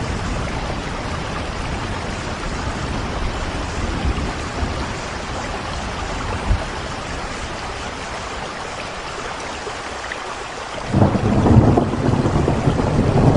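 Steady rain falling with low rolling thunder underneath. A louder roll of thunder breaks in near the end.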